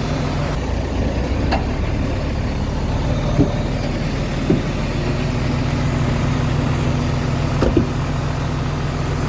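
Diesel engine of a small Komatsu D21A bulldozer running steadily, with a few short knocks along the way.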